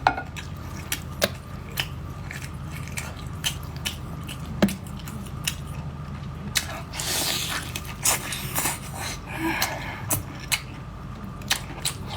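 Close-miked eating: chewing with sharp, wet mouth clicks and smacks at irregular intervals, over a steady low hum.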